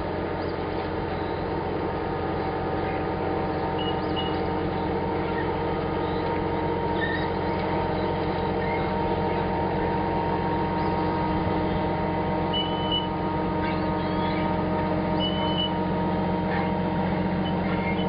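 A pontoon boat's motor running at a steady speed, with an even, unchanging drone. A few faint, short, high chirps come through over it.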